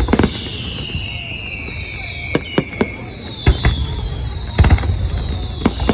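Fireworks display: shells bursting in sharp bangs, about seven of them, some in quick pairs, over several overlapping whistles that fall slowly in pitch.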